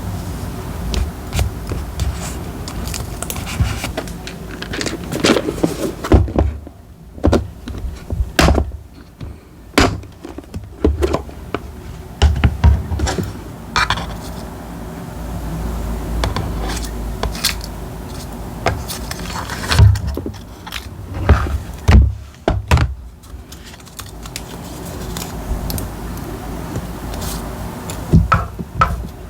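Irregular taps, thunks and rustles of paper and stationery being handled and set down on a desk during diary decorating, over a steady low hum.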